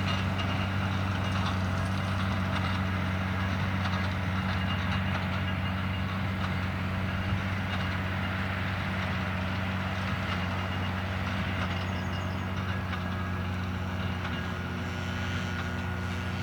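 Valtra tractor's diesel engine running steadily under load while it drives a Claas Quadrant 2200 square baler, the two machines sounding together at an even level.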